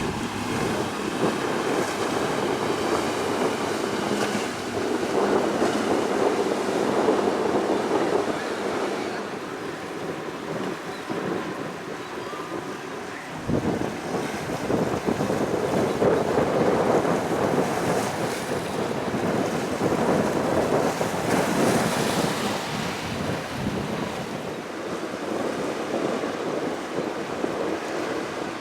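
Strong wind buffeting the microphone over surf and choppy waves at an ocean inlet, surging and easing. There is an abrupt change about halfway through.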